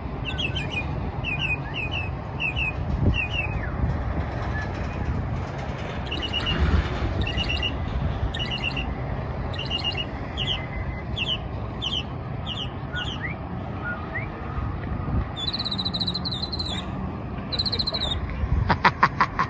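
Northern mockingbird singing: the same sharp chirped note repeated over and over, switching about three-quarters of the way through to longer, higher phrases, then a quick rattle of clicks near the end. A steady low background hum runs underneath.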